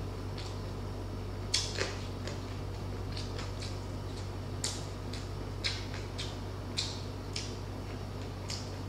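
Close-miked chewing and mouth sounds from a person eating with his hands: scattered short crunches, clicks and smacks at irregular intervals, over a steady low electrical hum.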